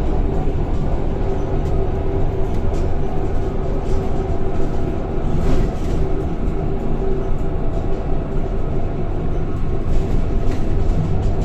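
Scania K230 single-deck bus with a five-cylinder diesel, heard from inside while running on the road: a steady engine drone with a constant whine over it. A few sharp rattles come through, one about five and a half seconds in and another near ten seconds.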